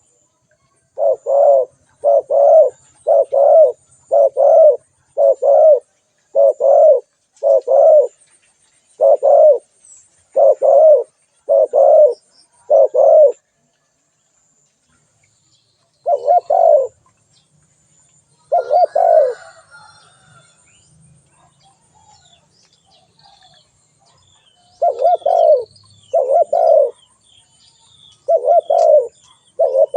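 Spotted dove cooing: a run of short, low coos, each a quick double note, repeated about once a second, breaking off twice in the middle before starting again near the end.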